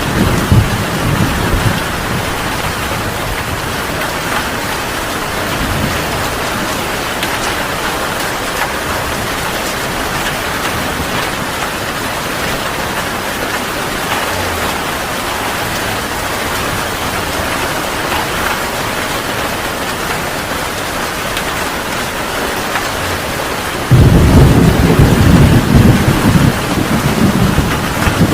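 Heavy rain pouring steadily. Thunder rumbles fade away in the first moments, then a loud peal of thunder breaks in suddenly near the end and rumbles on.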